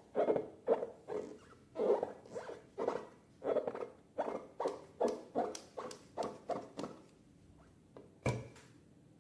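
Slime being squeezed and kneaded by hand, a quick series of short wet squishes, two or three a second, that stops about seven seconds in, followed by a single sharper snap.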